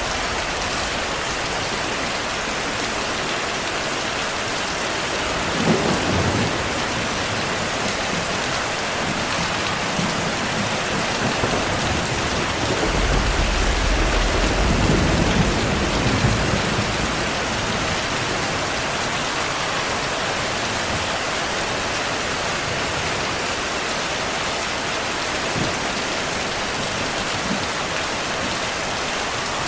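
Steady heavy rain with thunder: a sudden rumble about six seconds in, a longer rolling rumble through the middle, and a faint one near the end.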